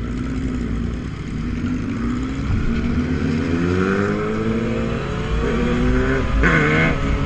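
Motorcycle engine revving, its pitch climbing steadily for several seconds before dropping sharply near the end, with a brief noisy burst as it falls.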